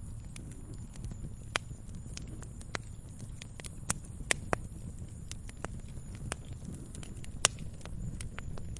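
Wood fire crackling in a fireplace: irregular sharp pops and snaps over a steady low rumble, the loudest pop about seven and a half seconds in.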